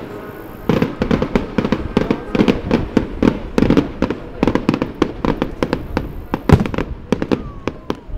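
Aerial fireworks bursting in quick succession, many sharp bangs and crackles a second, starting after a brief lull and with one especially loud bang about six and a half seconds in.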